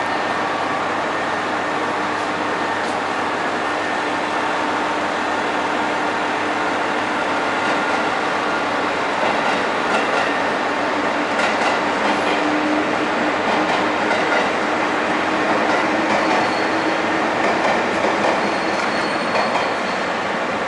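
A train running slowly along a station platform track, with wheels clacking over the rail and a steady hum that swells as it comes close. A thin high squeal appears in the last few seconds.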